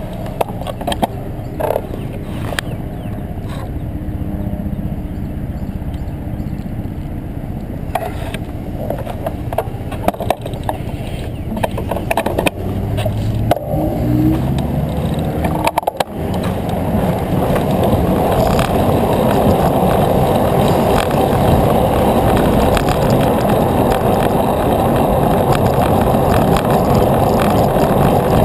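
Wind rushing over the microphone and bicycle tyres rolling on pavement, with scattered clicks and knocks from bumps. The rush grows louder and steadier about two-thirds of the way through, as the bike picks up speed.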